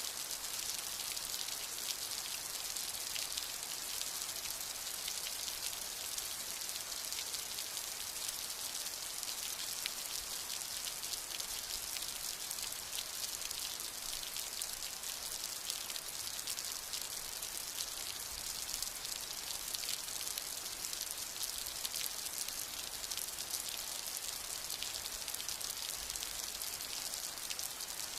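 Steady rain falling, a constant hiss with dense, fine drop hits and no thunder.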